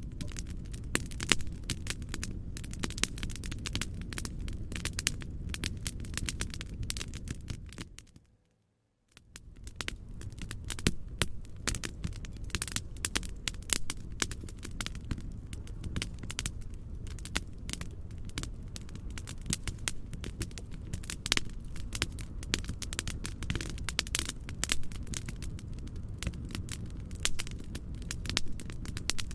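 Fireplace crackling: rapid irregular pops and snaps over a steady low rumbling noise. About eight seconds in it fades out to silence for about a second, then fades back in.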